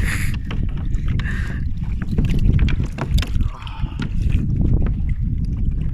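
Water rushing along a kayak's hull, with wind buffeting the microphone, as the kayak is towed fast by a hooked turtle. Scattered sharp clicks and knocks run through it.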